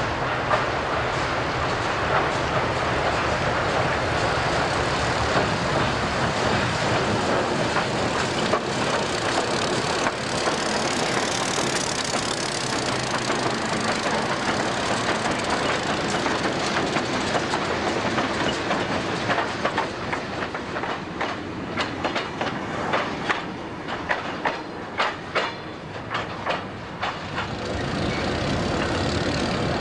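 Diesel switcher locomotives running past close by, hauling covered hopper cars. Later come the rhythmic clicks of the hopper wheels passing over rail joints as the cars roll by.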